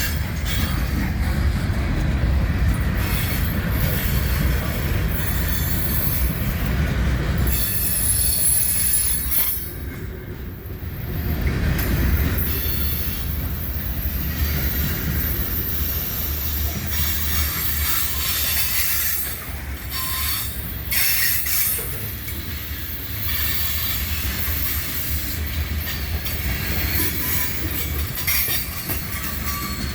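CSX freight train rolling past: a steady low rumble of the cars on the rails, with high-pitched wheel squeal coming and going.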